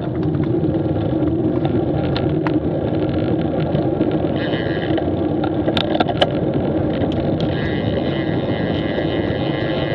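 Street motorcycle riding at a steady pace: a steady engine hum under wind and road noise, with a few sharp clicks and a higher whine that comes and goes.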